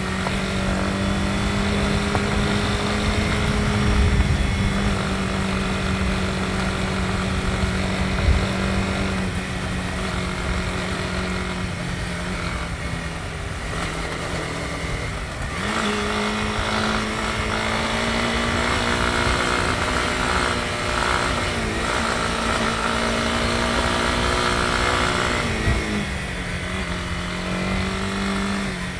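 Honda CB250R's single-cylinder engine running at steady cruising throttle. Its pitch dips slightly about a third of the way in, steps up about halfway, and falls again near the end. There are two short knocks early on.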